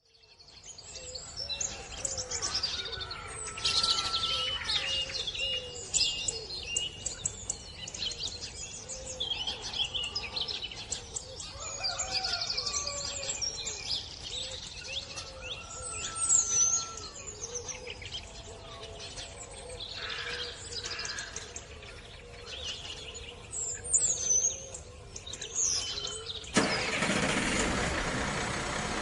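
Birds chirping, with many scattered small clicks and taps, and a steady rushing noise that comes in near the end.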